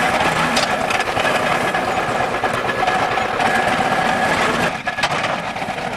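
Old stationary hay baler running under engine power: a steady mechanical clatter with a steady whine, dropping briefly near five seconds in.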